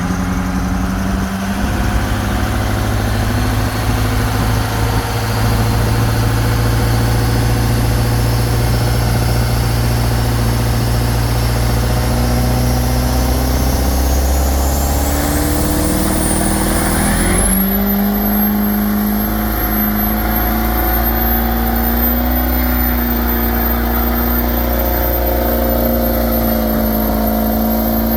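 Diesel pickup truck held at high revs during a burnout, its tires spinning on the pavement. A thin turbo whistle climbs steadily over about five seconds partway through, then holds high as the engine note steps up.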